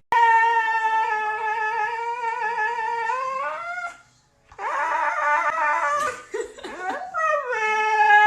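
A dog howling: a long, steady howl that rises in pitch at its end, a short break, a wavering, whining cry, then a second long howl that slides down and holds a steady pitch.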